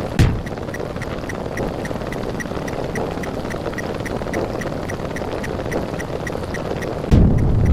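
Dense stack of rapidly retriggered sound effects forming a steady rumbling buzz, with short ticks about five a second. A sharp loud hit comes just after the start, and a louder, deeper burst comes in about seven seconds in.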